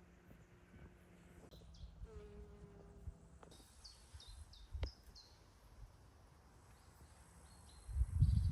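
Faint outdoor evening ambience with a low hum and a few short high chirps. A brief low rumbling thump comes near the end.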